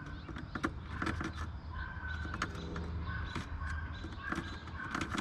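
A bird calling in the background, with scattered light clicks from hands working wires and a test light around a truck's relay.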